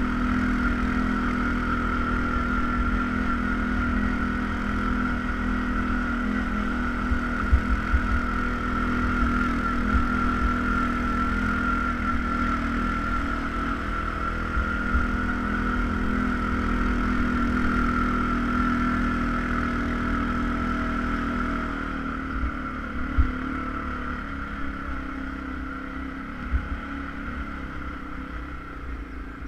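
ATV engine running steadily while riding, with a low rumble and a few sharp knocks. It eases off a little about three quarters of the way through.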